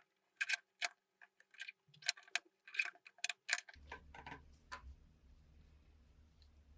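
A quick series of sharp clicks and taps, about a dozen in the first four seconds. Just before four seconds in, a low steady hum starts and continues.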